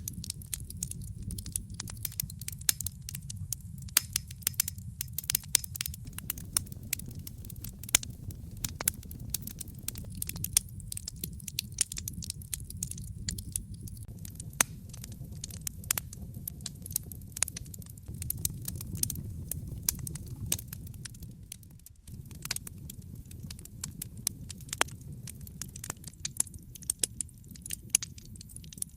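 Wood fire in a fireplace crackling, with frequent irregular sharp pops over a steady low rumble of the flames. The sound dips briefly about three-quarters of the way through.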